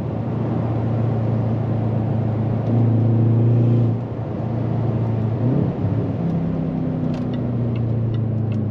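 Jaguar XFR's supercharged 5.0-litre V8 running under steady throttle. The note eases about four seconds in, then briefly rises and falls in pitch a little after five seconds before settling again.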